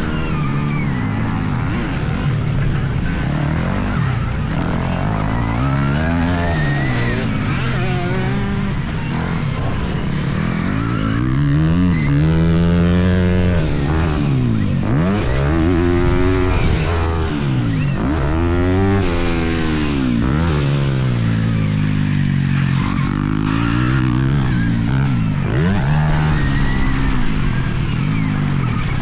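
Stark Varg electric motocross bike riding hard on a dirt track, its motor and drive whine rising and falling in pitch again and again as the throttle is opened and shut, over a constant rush of wind and tyre noise.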